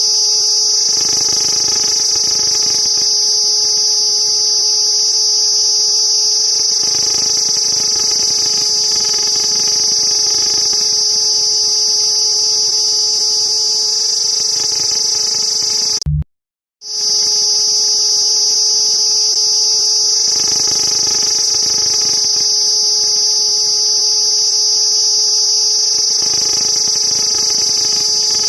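Cicada song: a loud, steady, high-pitched buzz that drops out suddenly for under a second about halfway through, then resumes unchanged.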